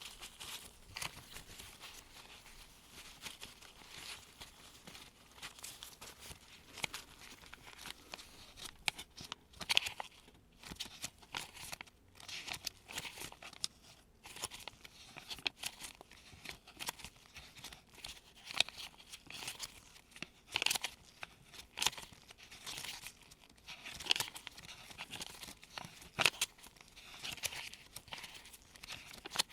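US one-dollar bills turned over one at a time like pages by gloved hands: irregular crisp rustles and paper flicks, about one or two a second.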